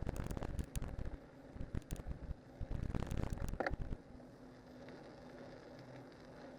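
Cyclocross bike on spiked tyres riding downhill over rough ground: rattling knocks and rumbling buffeting, easing about four seconds in to a quieter, steady rolling sound.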